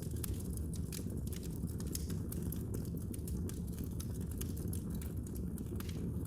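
Wood fire burning in a fireplace: a steady low rumble of the flames with frequent small irregular crackles and pops.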